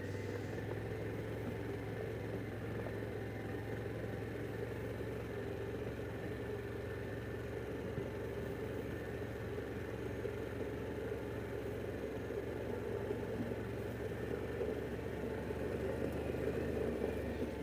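Harley-Davidson Pan America Special's V-twin engine running at a steady pace while riding, with road and wind noise underneath.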